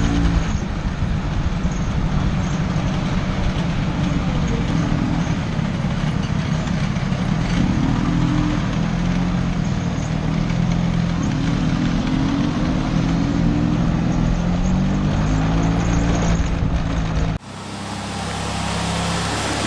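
Vespa scooter engine running while riding, its pitch rising and falling as the speed changes, under heavy wind rumble on the microphone. The sound cuts off suddenly near the end, and a quieter steady hum follows.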